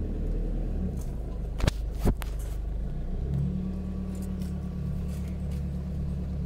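Nissan GU Patrol engine running at low revs while the four-wheel drive crawls along a rough bush track, heard from inside the cabin. Two sharp knocks come about one and a half and two seconds in, and from about three seconds a steady engine drone settles in.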